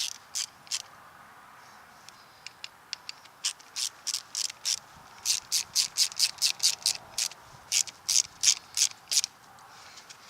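Quick, repeated rasping strokes of a hand tool working on the drive shaft's U-joint, about four to five a second, in runs broken by short pauses.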